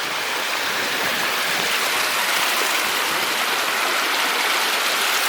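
Waterfall's falling water rushing steadily, an even hiss-like roar of water.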